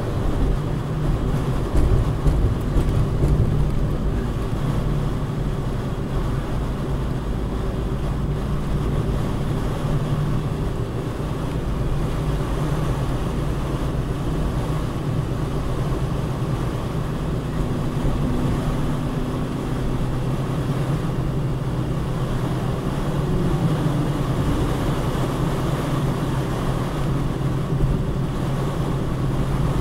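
Car being driven, its engine and road noise making a steady low rumble heard from inside the cabin.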